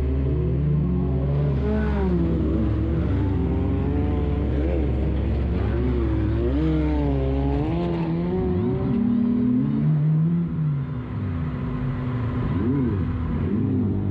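Crash-racing stock car's engine heard from onboard, its revs rising and falling again and again as the driver accelerates and lifts off. A steady low drone underneath drops away about eight seconds in.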